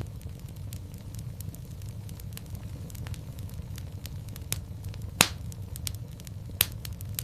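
Fire crackling in a fireplace: irregular sharp pops and snaps over a steady low rumble of the flames. One loud pop comes a little after five seconds in, and another about a second and a half later.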